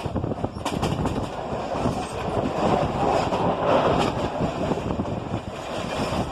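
Mumbai suburban local train running, heard from inside a carriage: a steady rumble with wheels clattering over the rails, swelling louder about three to four seconds in.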